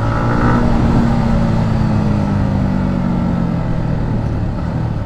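Yamaha MT-15's 155 cc single-cylinder engine running on the move, its pitch easing slowly down as it comes off the throttle, with wind rush.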